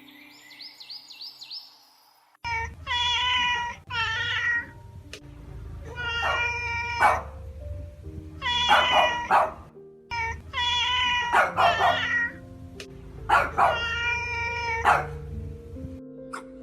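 A domestic cat meowing repeatedly, a series of drawn-out meows about a second each with short pauses between, over background music.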